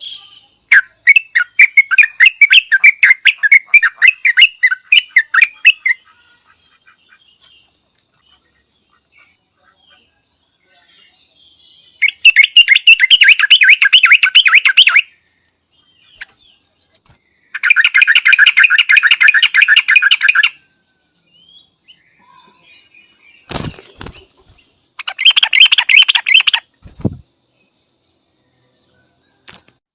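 Yellow-vented bulbul calling in four bursts of rapid repeated notes, each lasting between one and a half and five seconds, with quiet pauses between them. Two brief low thumps come near the end.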